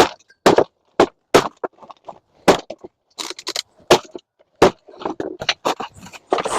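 Hammer blows on scrap being broken apart: a run of sharp, irregularly spaced strikes with crunching and cracking between them.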